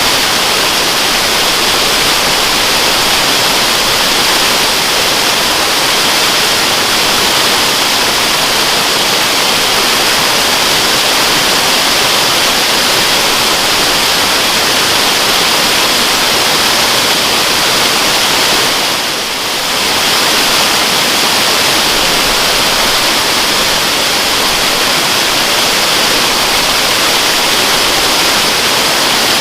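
Waterfall rushing steadily, a loud even hiss of falling water, dipping briefly about two-thirds of the way through.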